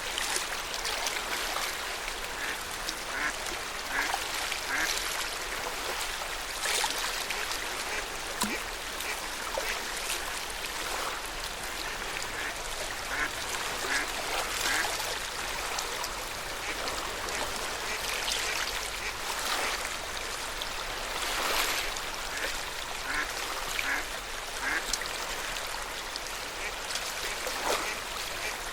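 Lake water lapping and splashing against the shore in an irregular wash, with a few louder splashes. Short, clipped calls come in small runs of three or four several times, from waterfowl on the lake.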